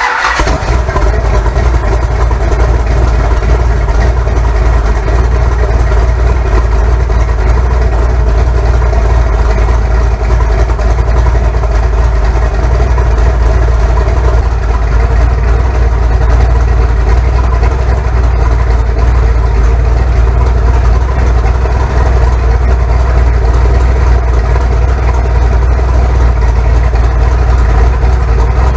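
Car engine idling steadily and loudly just after being started, with a deep, even note.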